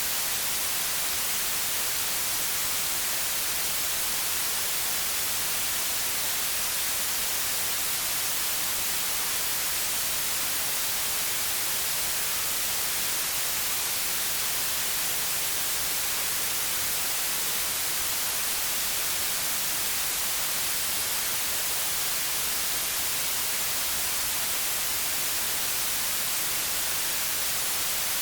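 Steady white noise: a constant, even hiss, strongest in the high frequencies, with no change in level or character.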